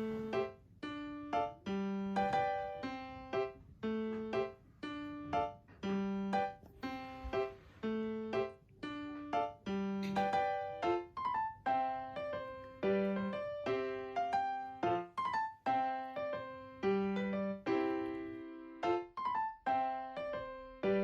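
Background piano music: a gentle melody of separate notes, each struck and then fading.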